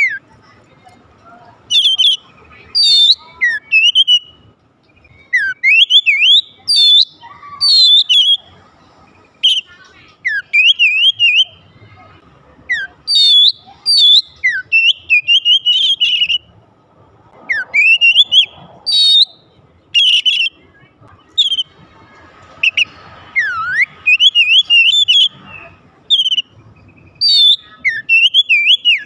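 Oriental magpie-robin singing: loud, varied whistled phrases with quick rising and falling sweeps, delivered in bursts a second or two apart.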